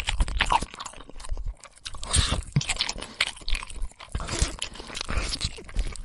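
A long-tailed macaque chewing and biting food: a run of irregular crunches and wet clicks.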